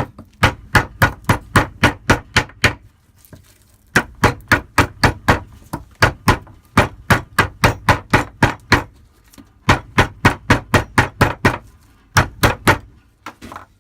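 Rapid repeated blows driving a small hand-forged tomahawk into a piece of wood as a test of its edge. The strikes come about three to four a second in several runs, with short pauses between them.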